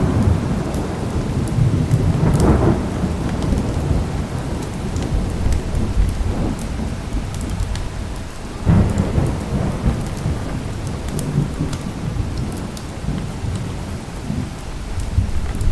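Thunderstorm recording: steady rain with continuous deep rolling thunder that swells about two and a half seconds in and again about nine seconds in. Scattered sharp crackles of a fireplace sound through it.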